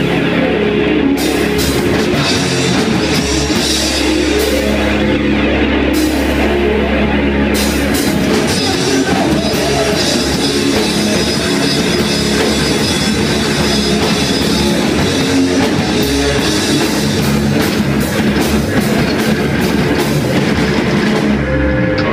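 Loud rock music with a full drum kit, dense and unbroken.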